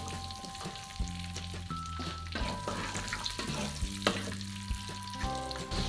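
Pea eggplants frying in hot oil in a wok, sizzling steadily. A wooden spatula stirring them knocks against the pan several times.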